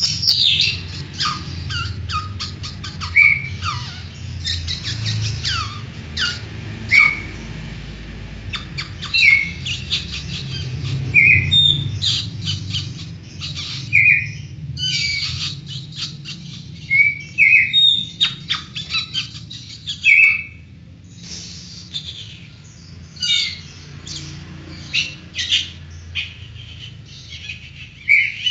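Oriental magpie-robin (kacer) singing a long, varied song of short chirps, quick whistled slurs and rapid clicking rattles, with calls learned from other birds such as the long-tailed shrike, lovebird and white-rumped shama worked in. A steady low hum runs underneath.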